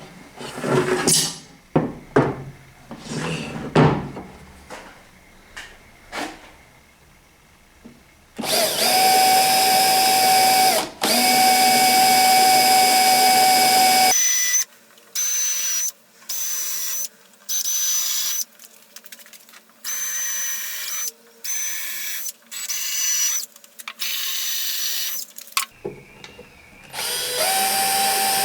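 Scattered knocks and clatter of handling, then an electric drill running steadily for about five seconds with a brief stop in the middle, followed by a string of short spurts about a second each and one more steady run near the end.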